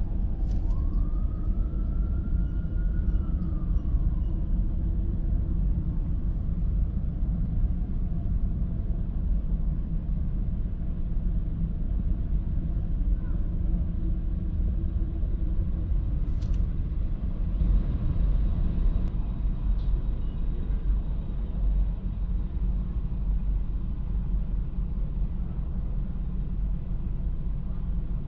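Steady low rumble of road traffic, with a single tone rising and falling in pitch during the first few seconds.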